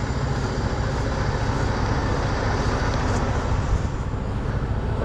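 Heavy truck's diesel engine running steadily with a low, pulsing rumble.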